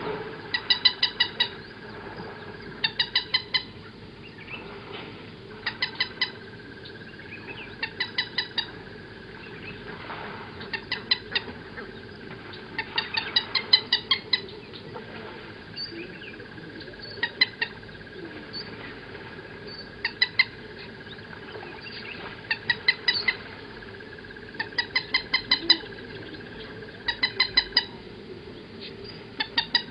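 A bird calling in repeated runs of three to six quick, clipped notes, one run every two to three seconds, over a steady faint background drone.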